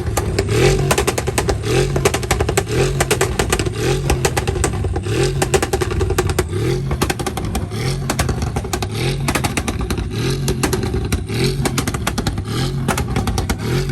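A car engine revving hard in a regular cycle, its pitch climbing and dropping again about once every second and a quarter, with a dense crackle over it.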